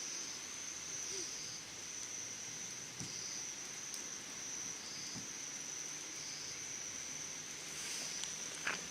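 Summer insects singing: one steady, high-pitched trill throughout, with a softer pulsing call beneath it about once a second. A few faint crackles from a low campfire.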